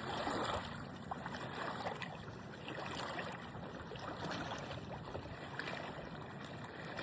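Gentle water lapping and trickling at the shore, with faint small splashes.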